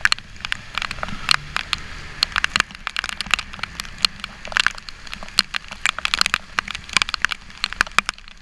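Raindrops striking a GoPro action camera's housing in a fast, irregular patter of sharp taps, over the low steady rumble of a motorcycle riding through heavy rain.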